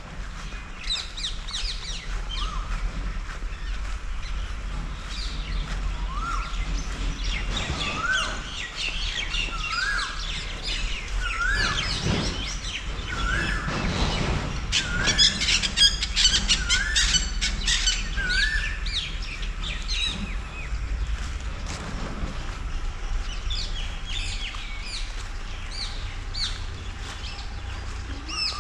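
Birds chirping and twittering in the trees, with one bird repeating a short rising whistled note about once a second for some twelve seconds in the middle. A dense flurry of chirps comes a little past halfway.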